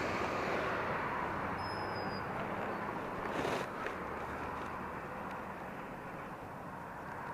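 BMW R80RT's air-cooled flat-twin running at low speed under steady wind rush on a helmet-mounted camera, with a short louder whoosh about three and a half seconds in.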